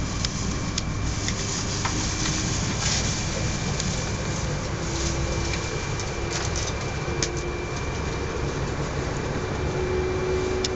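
Interior running noise of a 200 Series Shinkansen car moving at speed: a steady low rumble and rushing hiss with a thin, steady high whine and a few faint clicks.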